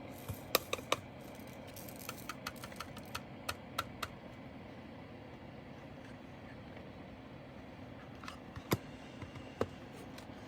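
Light clicks and taps from handling diamond painting supplies, small plastic drill bags and containers, on a tabletop. There is a quick run of ticks over the first four seconds, then a few single clicks near the end.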